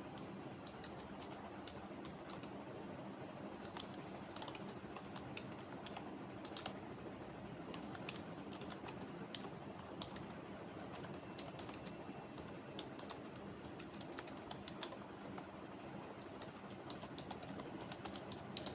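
Typing on a computer keyboard: irregular runs of keystroke clicks over a steady low background hum.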